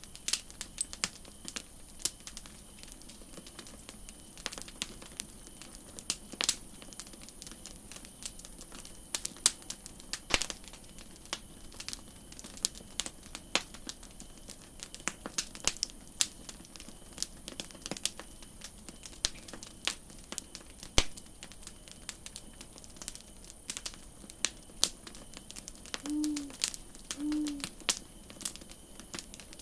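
Campfire crackling: irregular sharp pops and snaps of burning wood over a steady high hiss. Two short, low tonal calls come a second apart near the end.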